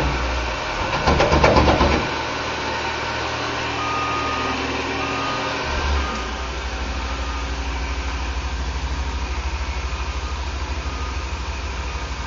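Heavy diesel engines of asphalt paving machinery, a dump truck and an asphalt paver, running. The engine sound is louder for the first two seconds, then settles into a steady low rumble with a fast even pulse. Faint short beeps come and go in the middle.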